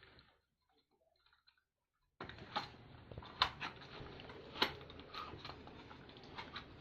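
Near silence for about two seconds, then a faint hiss with scattered sharp clicks and taps of metal parts being handled while a CNC axis drive belt and motor bracket are adjusted.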